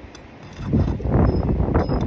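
Rough scraping and crunching from work on roof shingles, starting about two-thirds of a second in and continuing with many short cracks, likely a shingle being worked loose against glue that is still holding.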